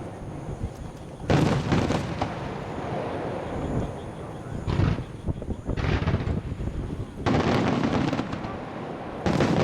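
Starmine fireworks display: aerial shells bursting in quick succession, about five loud booms a second or two apart, with continuous rumbling and crackle between them.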